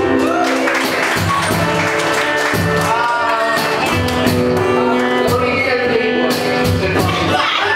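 Live band playing a song, with a singing voice over a steady bass line and regular drum hits.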